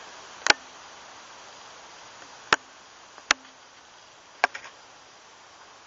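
Steady outdoor hiss of insects buzzing, broken four times by short sharp clicks or snaps.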